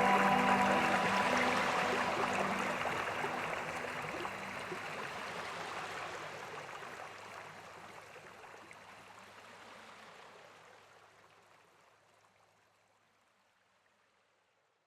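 Steady rain-like water noise with the last held notes of a music track, the whole fading out gradually to silence about twelve seconds in.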